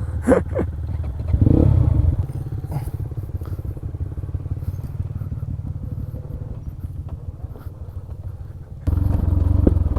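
Motorcycle engine running at low revs. It gets louder briefly about a second and a half in, and again from about nine seconds.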